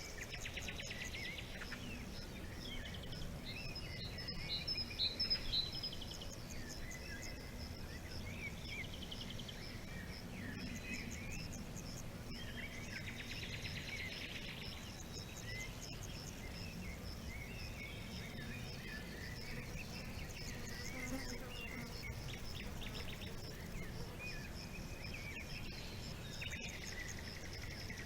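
Several songbirds chirping and trilling in short, varied phrases over a steady high insect trill, with a low background hiss. The birds are busiest and loudest about four to six seconds in.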